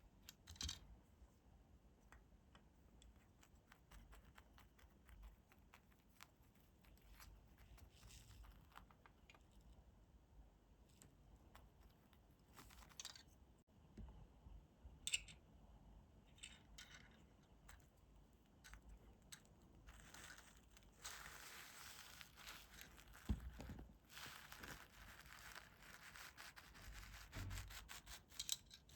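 Faint handling noise: scattered light ticks and scratches, then a louder stretch of crinkling rustle for several seconds near the end.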